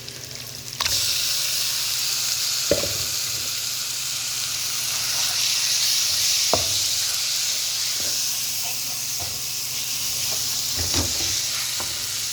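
Marinated chicken frying in a pan, a loud steady sizzle that starts abruptly about a second in, with a few short knocks of a utensil against the pan.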